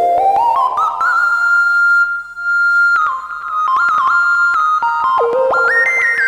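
IK Multimedia Uno Synth PRO analog synthesizer playing a factory preset: a fast run of stepped notes climbing upward, then one held high note, then a quick sequenced pattern of notes jumping up and down from about three seconds in.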